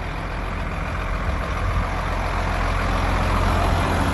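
Vehicle on the move: steady engine and road noise, gradually growing louder as it gathers speed.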